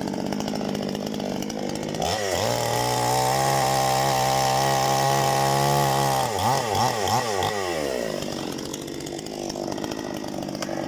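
Parma BP-058 two-stroke chainsaw running. It revs up sharply about two seconds in, holds high revs steadily for about four seconds, then the revs rise and fall for a couple of seconds before settling back to a lower, idling speed.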